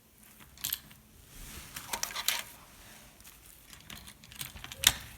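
Small plastic figures being handled and set onto HO scale model train cars: a few separate light clicks and taps, the sharpest near the end.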